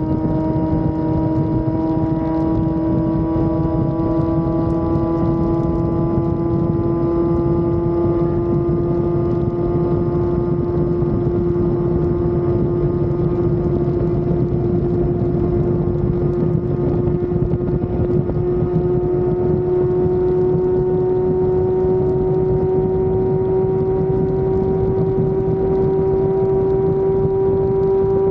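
Inline-four sport motorcycle engine running at high revs under steady riding, its pitch climbing slowly and evenly as the bike gathers speed, over a low rushing noise.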